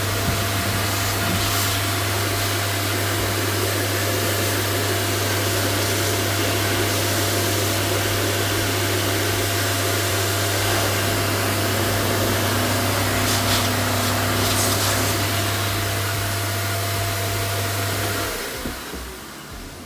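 A mains-powered electric machine running steadily with a strong low hum, a faint whine and a hiss, then switching off near the end.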